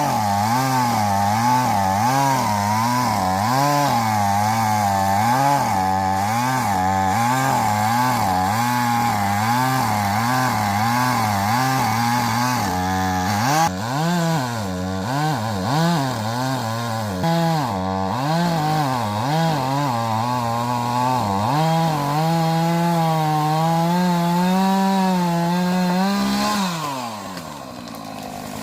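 Chainsaw cutting through a thick oak trunk about 65 cm across, running at full throttle with its pitch bobbing up and down as the bar works through the wood. Near the end the engine drops back to idle.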